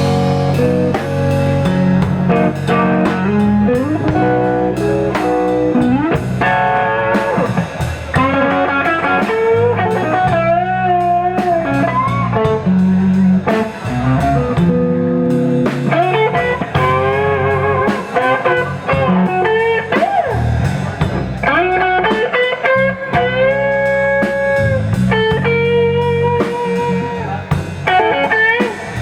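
Blues band playing an instrumental intro: an electric guitar lead with string bends and vibrato over bass guitar and drum kit.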